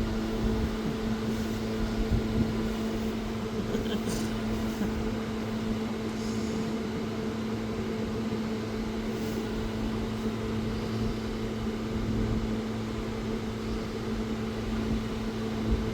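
Steady machine hum, like an appliance or fan motor running, with a few faint ticks.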